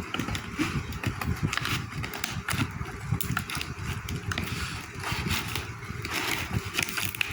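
Plastic jewellery packaging being handled and opened: continuous crinkling and rustling, dotted with many small irregular clicks.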